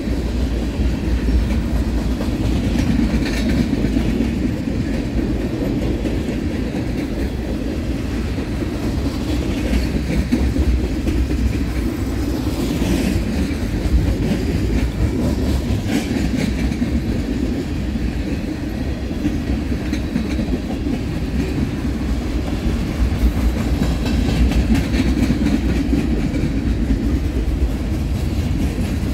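A train's cars rolling past close by: a steady rumble of steel wheels on rail with clattering over the joints, and a few faint high squeals.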